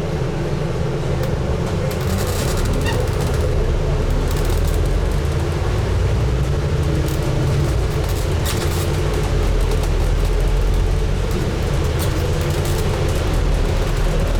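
Scania N250UD double-decker bus's five-cylinder diesel running under way, heard from inside the bus as a steady low rumble whose note drifts gently with speed. Short clicks and rattles from the bodywork are scattered through it.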